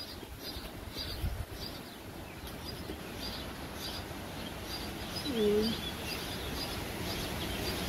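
Small birds chirping steadily, short high chirps about twice a second, over light wind rumble on the microphone.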